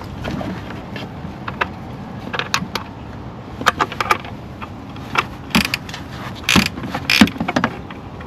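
Ratchet wrench and 10 mm socket clicking and clinking in irregular short bursts while undoing an intake-plenum bracket bolt, with a few louder metal clinks in the second half.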